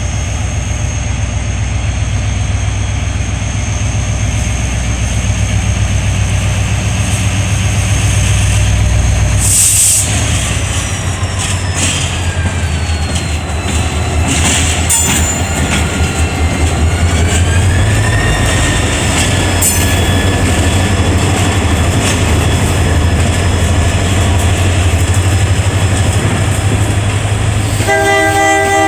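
Materfer MTF-3300 diesel locomotive running with a steady low drone as it pulls a passenger train out of the station, the rail cars rolling behind it. A brief horn sounds near the end.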